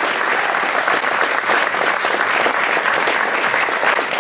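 Theatre audience applauding: steady, dense clapping with no pause.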